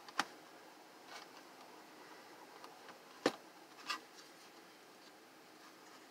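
A few short clicks and knocks from the plastic housing of a space heater being worked apart by hand, the sharpest about three seconds in, over quiet room tone.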